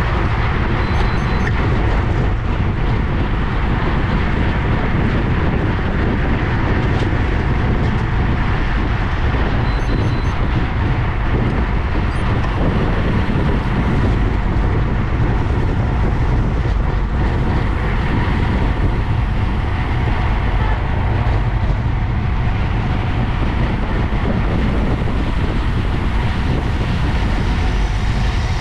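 Steady rush of wind buffeting the microphone of a camera on a moving road bike, a constant low rumble mixed with tyre and road noise.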